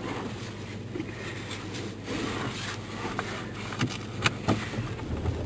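Vehicle engine running, heard from inside the cabin as a steady low hum, with a few sharp clicks about four seconds in.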